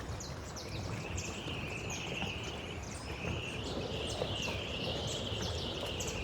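Steady rush of wind and water aboard a sailboat under way, with a high wavering whistle-like tone through most of it.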